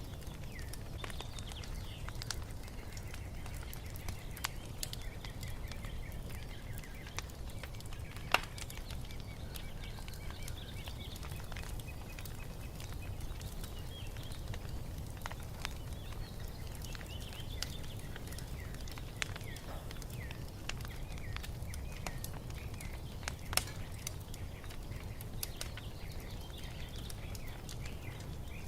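Wood fire crackling, with scattered sharp pops over a low steady rumble, while small birds chirp and twitter throughout. Two pops stand out as much louder, one about eight seconds in and another some fifteen seconds later.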